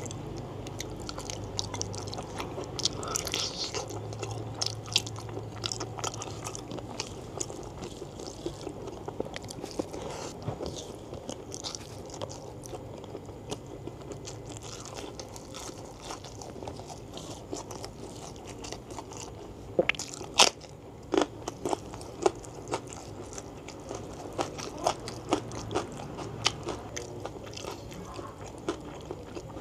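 Close-miked chewing and biting of curried beef foot tendon and fat with rice: wet smacking mouth sounds dotted with many short, sharp clicks, the loudest cluster about twenty seconds in.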